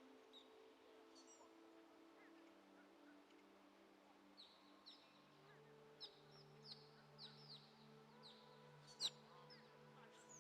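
Faint wild bird calls: short, high chirps that slide downward, repeated many times from about four seconds in. A single sharp tick comes about nine seconds in.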